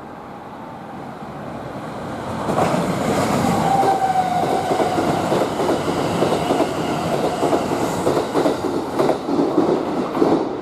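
Kintetsu limited express electric train passing through the station at speed. A rumble builds over the first two seconds, then a whine slowly drops in pitch, and in the last couple of seconds comes a rhythmic clatter of wheels over rail joints.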